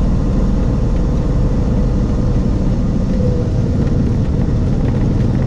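Cessna 182's single piston engine running steadily, a loud, even low drone.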